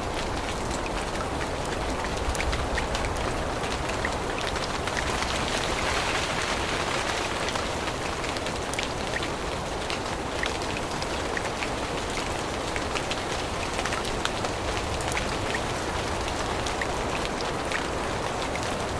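Steady rain falling in a forest, with many separate drops ticking on leaves through the even hiss.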